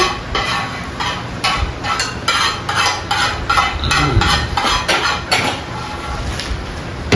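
Dishes, pots and cutlery clattering: a quick, uneven run of clinks and knocks.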